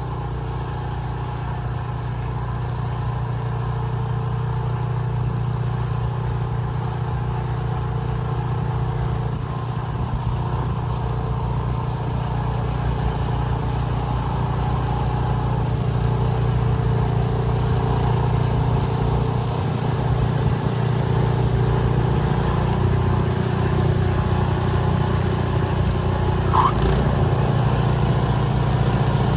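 Benchmark 30-inch 420cc tracked snowblower's single-cylinder engine running steadily under load while clearing snow, growing slowly louder.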